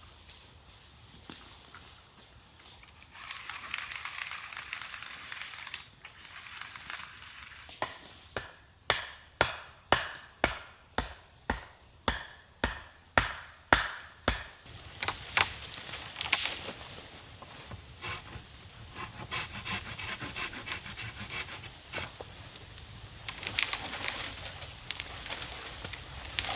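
Hand-tool woodworking on wood: a short stretch of rubbing, then a run of about a dozen sharp, evenly spaced strikes at roughly two a second, then the rasping strokes of a hand saw cutting wood.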